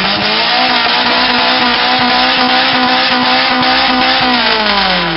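Engine revved hard through a loud exhaust and held at high revs for about four seconds, its pitch dropping as it is let back down near the end.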